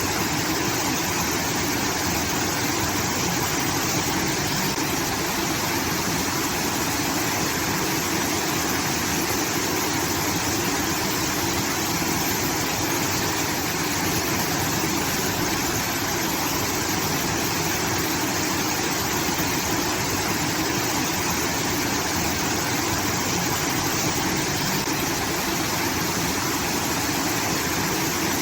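Water pouring from a rice-field irrigation outlet, a steady, even rush like a small waterfall.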